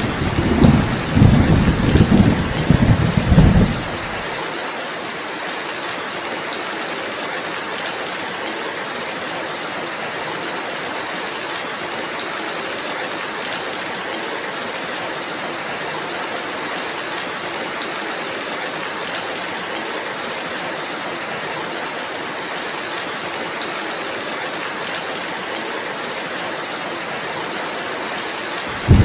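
Steady rain falling, with a loud rolling rumble of thunder that fades out about four seconds in; after that only the even hiss of the rain, until a new thunder rumble starts right at the end.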